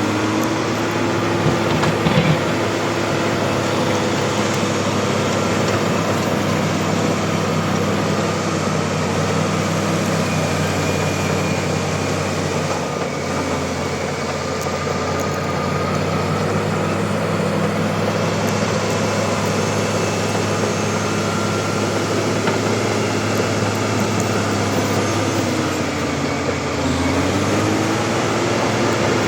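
Bulldozer's diesel engine running steadily under work, with track and machine noise around it; about three-quarters of the way through the engine note sags briefly and climbs back, as if under a heavier load.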